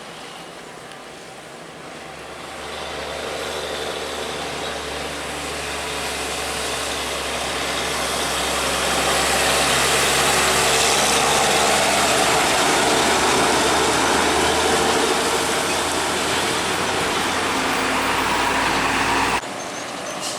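A heavy truck's diesel engine and tyres grow steadily louder as it approaches and passes close by, with a steady low engine hum under the road noise. The sound cuts off abruptly near the end.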